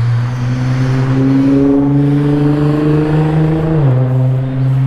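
A passing road vehicle's engine accelerating, its pitch climbing steadily and then dropping with a gear change near the end.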